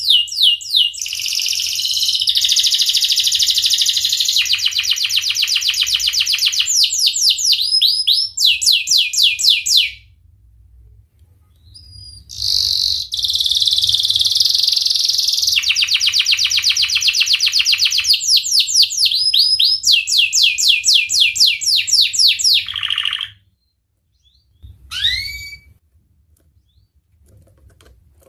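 Domestic canary singing two long phrases of rapid rolling trills and fast repeated sweeping notes, each about ten seconds, with a short pause between them. A single short call follows near the end.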